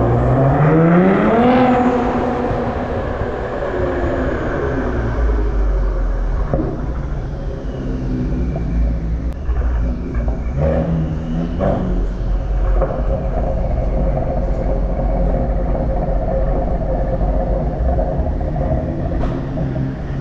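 Ford Explorer ST's 3.0-litre twin-turbo V6 exhaust, rising in pitch as the SUV accelerates over the first two seconds. It then runs steadily at a low pitch, with a couple of brief revs about halfway through.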